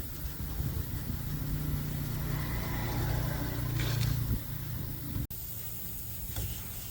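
A truck engine running with a steady low hum, louder toward the middle, then cut off abruptly about five seconds in; a few faint clicks follow.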